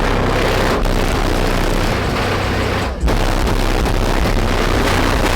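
Car trunk sound system blasting bass-heavy music at competition volume, overdriving the microphone into a dense, distorted roar. There is a brief break about three seconds in.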